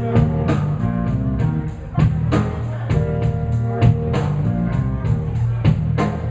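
Live blues band playing an instrumental stretch between sung lines: guitar lines over bass and a drum kit keeping a steady beat with evenly spaced cymbal strokes.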